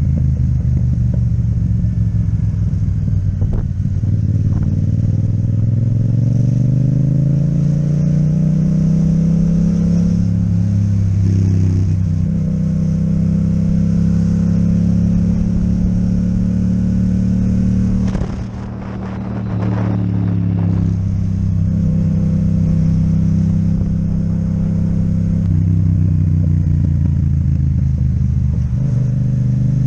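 Yamaha MT-07's parallel-twin engine with an Akrapovic exhaust, heard from the bike while riding. The engine note climbs under acceleration, then steps down at a gear change. It dips briefly about eighteen seconds in as the throttle eases, then runs steadily again.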